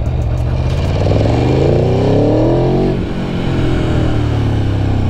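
Aprilia Tuono V4 1100 Factory's V4 engine pulling in first gear: the revs climb for about two seconds, then drop sharply as the throttle closes, and the engine runs on at lower revs.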